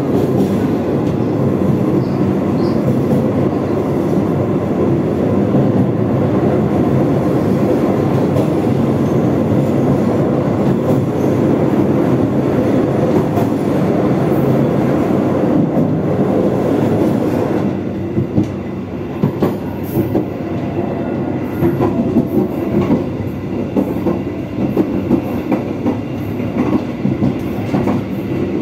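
Passenger train's wheels rumbling loudly and steadily across a steel truss bridge. About eighteen seconds in the train comes off the bridge onto ballasted track, and the sound turns lighter, with sharp wheel clacks at irregular intervals.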